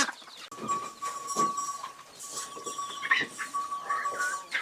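Farm animals calling with a few short calls, over a thin steady high tone that holds most of the time.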